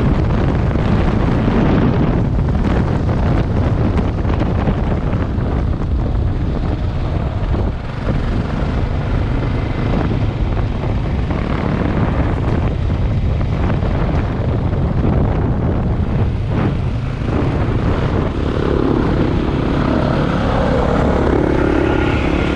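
Single-cylinder dual-sport motorcycle engine running under way, a steady loud drone mixed with wind and road noise.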